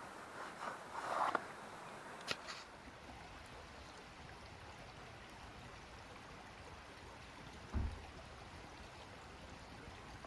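River water flowing steadily, a continuous even rush. A few short knocks and rustles sound in the first couple of seconds, and a single low thump comes near eight seconds in.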